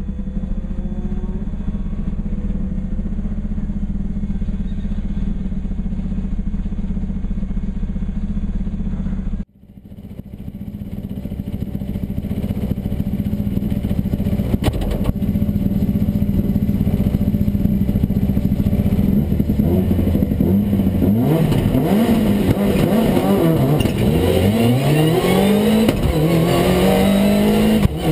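Rally car engine idling steadily, heard from inside the cabin; the sound cuts off abruptly and returns. Near the end the engine revs up and down repeatedly, its pitch climbing and falling again and again.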